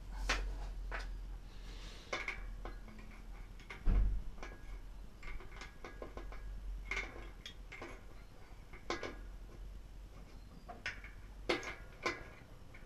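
Metal parts of a Hope Pro 2 EVO front hub and the tools working on it clicking and clinking during bearing replacement, with a heavier knock about four seconds in.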